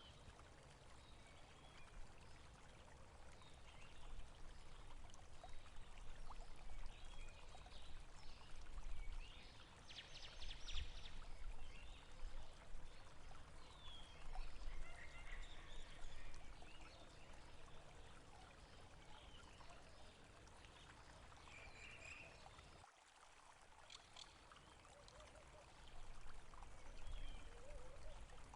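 Water running and trickling, like a small stream, with scattered short bird chirps over it. The sound dips sharply for a moment about 23 seconds in, as at a splice between two recordings.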